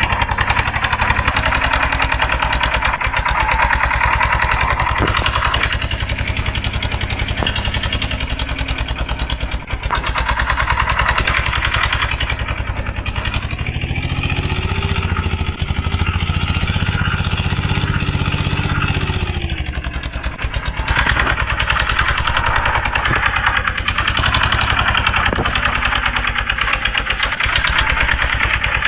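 Eicher 241 tractor's single-cylinder diesel engine running with a steady thudding beat. About halfway through it revs up, holds the higher speed for several seconds, then drops back to its lower running speed.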